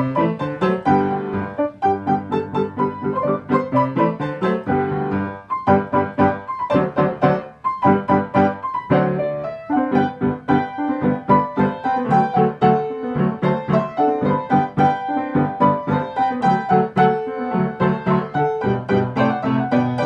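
Piano being played: a continuous run of quick notes with a steady pulse, briefly easing off twice near the middle.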